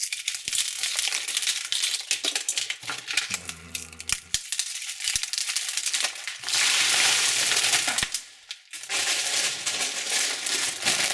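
Candy wrappers crinkling and rustling as they are handled and unwrapped: a crackling hiss full of small clicks, with a louder, denser rustle starting about six and a half seconds in and lasting about two seconds.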